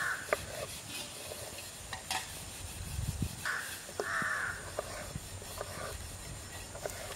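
Harsh, cawing bird calls: one right at the start, then two close together about three and a half to four and a half seconds in, with a few faint clicks between.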